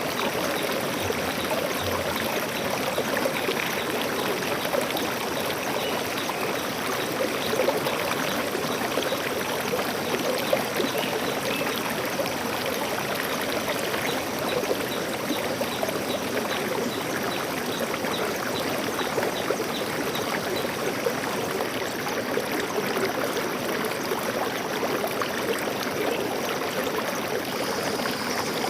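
Forest stream flowing steadily over rocks, a continuous babbling rush of water.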